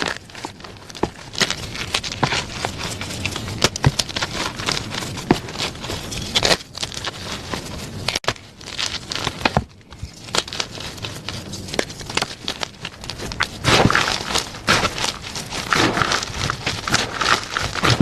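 Plain gym chalk being crushed by hand, a dense run of crunchy cracks and crackles. It drops out briefly a few times in the middle and grows louder and denser from about three-quarters of the way in.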